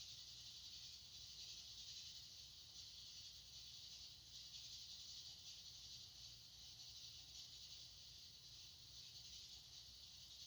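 Faint, steady high hiss with no breaks or rhythm, played as white noise, over a low hum.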